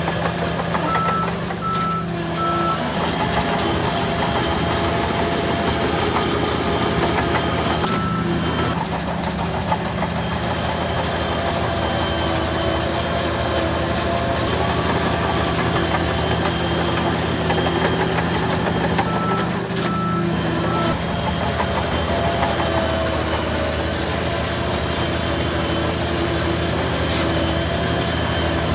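Diesel engines of heavy earthmoving machines, bulldozers among them, running steadily. A reversing alarm beeps in short runs of about three near the start and again about two-thirds through.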